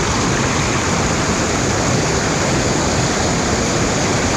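Loud, steady rush of water pouring over a small waterfall, heard close up.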